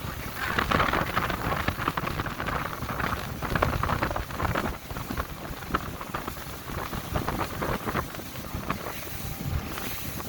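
Motorboat running under way, with wind buffeting the microphone and water spraying and splashing against the hull over a low engine rumble.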